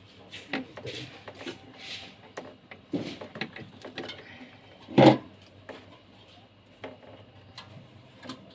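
Handling noise from work on a refrigerator's defrost parts at the evaporator: scattered clicks and rattles, with one loud knock about five seconds in.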